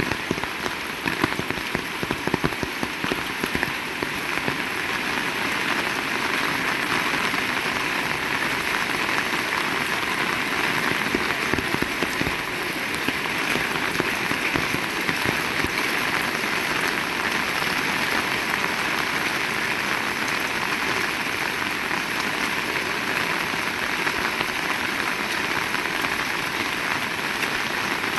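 Heavy rain falling steadily in a dense hiss of drops. In the first few seconds separate drop hits stand out more; after that the downpour evens out.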